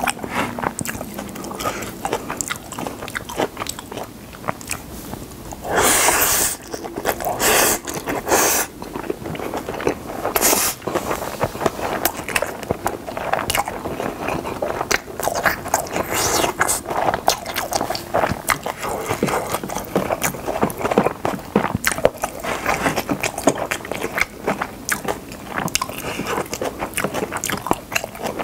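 Close-miked chewing of Spam kimchi fried rice: steady wet mouth clicks and smacks, with a plastic spoon scraping and tapping the plate. A few louder, harsher noises come about six to eight seconds in.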